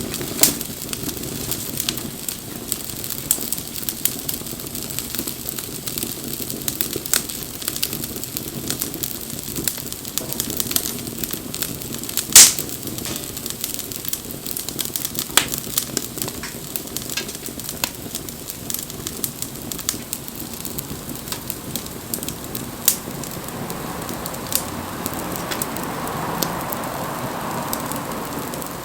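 Wood bonfire burning: a steady low rush of flame with constant irregular crackling and snapping, one sharp loud pop about twelve seconds in. Near the end a soft hiss swells and fades.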